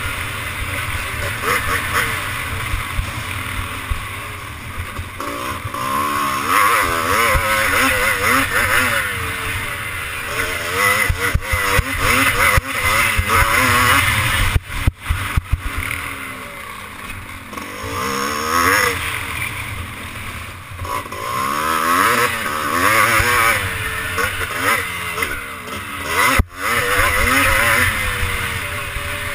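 Classic twinshock motocross bike engine revving up and falling back again and again as the bike is ridden round the track, with wind buffeting the microphone. The sound drops out sharply for a moment twice, about halfway through and near the end.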